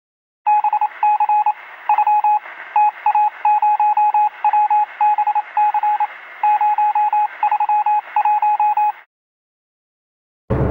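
Stock sound effect of rapid electronic telephone beeps, one repeated pitch in short irregular groups, over a hiss heard as if through a phone line. It starts about half a second in and cuts off suddenly near the end.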